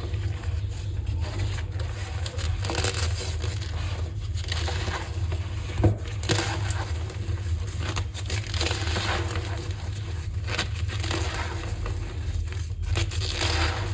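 Green-dyed gym chalk being crushed, squeaky crunching in an irregular run, with one sharper crack about six seconds in.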